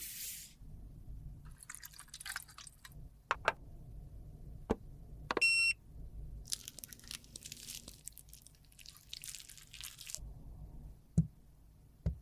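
Close-miked ASMR handling of lipstick being cut, crushed and mixed: fine crackling and squishing with scattered sharp clicks and taps, and one short electronic beep about five and a half seconds in.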